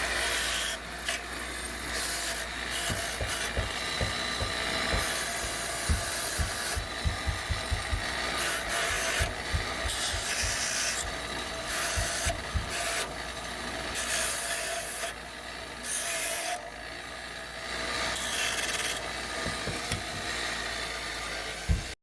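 Metalwork on a steel wheelhouse patch panel: repeated bursts of rough, hissing noise a second or two long, stopping and starting, over a steady low hum.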